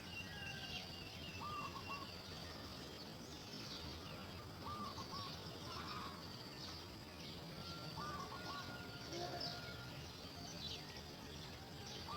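Wild birds calling: many short high chirps and brief whistled notes, scattered and overlapping, over a steady background hiss.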